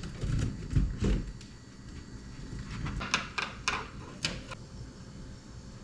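A few scattered knocks and clicks of things being handled: dull thumps in the first second, then several sharp clicks a little past halfway.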